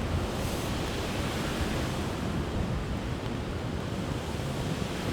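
Wind buffeting the microphone, a steady rushing noise heaviest at the low end, in cold, rainy weather.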